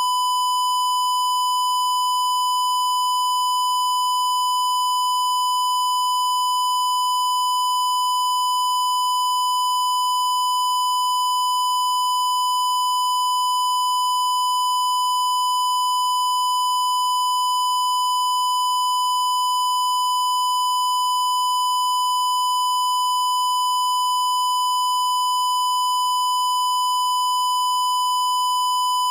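A continuous electronic tone held at one pitch without a break, with fainter overtones above it.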